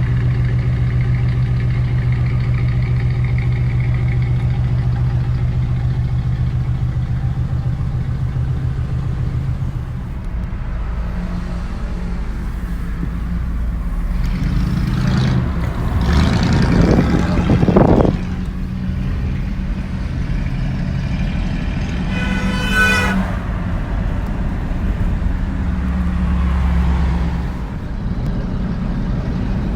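Old supercar's naturally aspirated V8 engine idling steadily, then revving up with a rising pitch that peaks about two-thirds of the way to the middle and drops away. A brief, higher-pitched sound follows a few seconds later before the engine settles back to a steady run.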